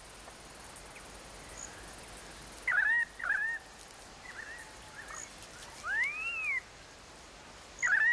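Bird calls over a faint steady outdoor background: pairs of short curving notes every couple of seconds, and one longer rising-and-falling call about six seconds in.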